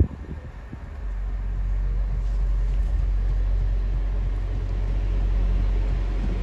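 Class 175 diesel multiple unit's engines running with a steady low hum, rising about a second in and then holding even.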